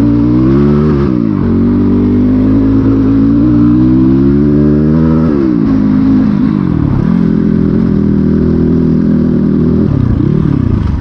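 Dirt bike engine running, its revs rising and falling several times with steadier stretches between.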